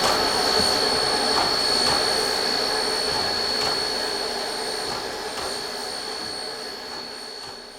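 Durango & Silverton K-37 steam locomotive #493 working past with a loud steady hiss of steam and a thin high whine over it, fading gradually as it moves away.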